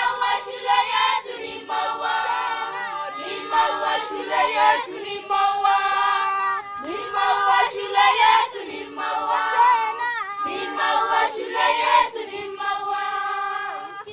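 A group of schoolchildren singing together as a choir, in repeated phrases of about two seconds each.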